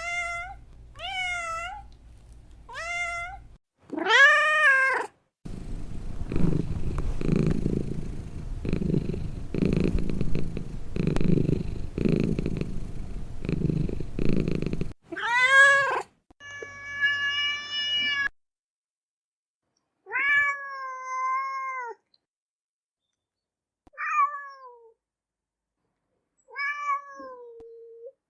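Domestic cat meowing: several short rising-and-falling meows, then about ten seconds of loud, rhythmic purring. More separate meows follow with gaps between them, one of them a longer call held at a steady pitch.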